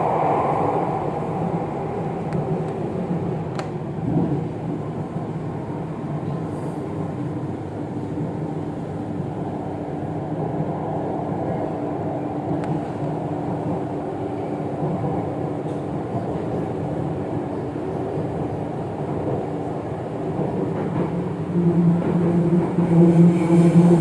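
Jakarta MRT train in motion heard from inside the carriage: a steady rumble of wheels and running gear, with a louder steady hum coming in near the end.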